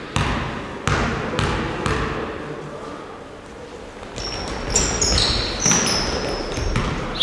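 Basketball bouncing on a gym floor: sharp thuds about every half second at first, then after a lull a few more, ringing in the hall. Short high squeaks come and go over the second half.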